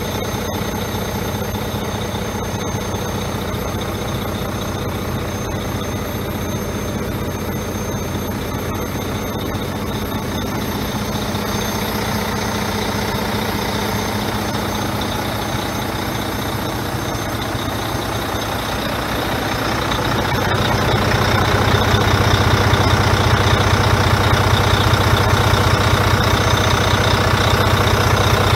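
Diesel engine of a 2015 Volvo conventional-cab road tractor running steadily, growing louder about two-thirds of the way through and holding there.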